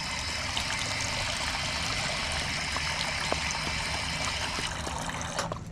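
Water running steadily from a dog park drinking fountain that a dog has asked to have turned on. It shuts off near the end.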